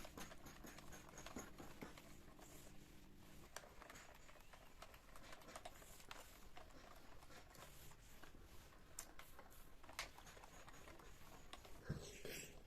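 Faint light clicks and taps, as of things being handled and set down, with a low steady hum that stops about three and a half seconds in and a louder knock near the end.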